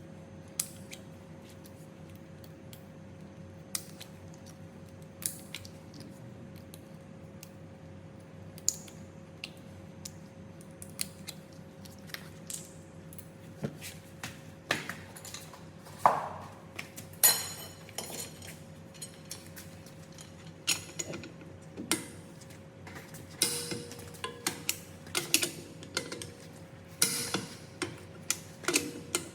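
Hand tools and metal parts clinking and knocking, scattered taps at first that come thicker and faster in the second half, over a faint steady hum.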